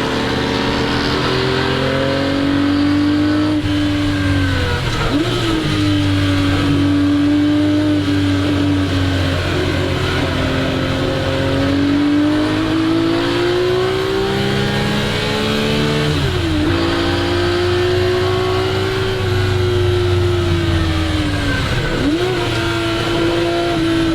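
1961 Ferrari 250 GT SWB's Colombo V12 engine under hard driving, its revs climbing and falling, with three quick sharp dips in pitch about five, sixteen and twenty-two seconds in.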